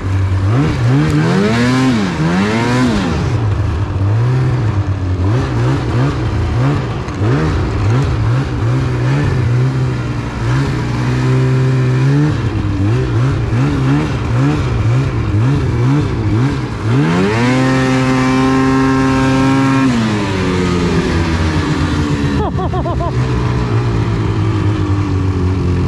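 Snowmobile engine revving up and down repeatedly as the sled is throttled through snow drifts. About seventeen seconds in it climbs to a high rev held for a few seconds, then falls off.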